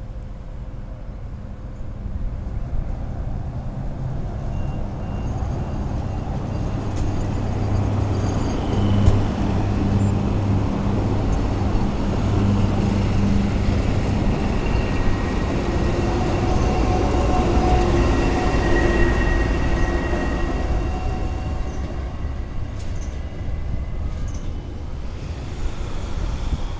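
Narrow-gauge diesel locomotive hauling a passenger train past. Its low engine drone builds to its strongest in the first half, then thin high squealing tones from the train come in near the middle before the sound eases off.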